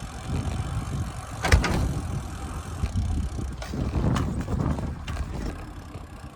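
Riding a bicycle: rumbling road and wind noise with scattered rattles, and one sharp knock about a second and a half in.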